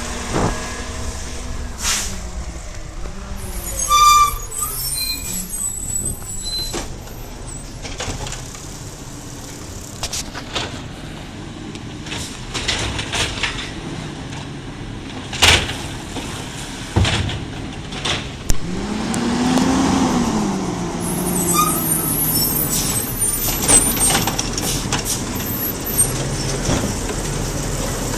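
Garbage truck engine running, with the engine pitch rising and falling once about two-thirds of the way through. Several sharp knocks and clanks, and short high squeals a few seconds in and again after the rev.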